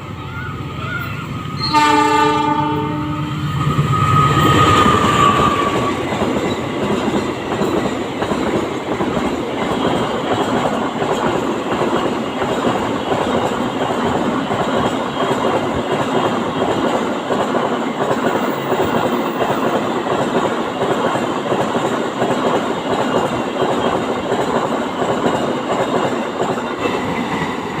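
A train horn blasts briefly about two seconds in. The train then passes close by, its wheels clattering steadily over the rail joints for the rest of the time.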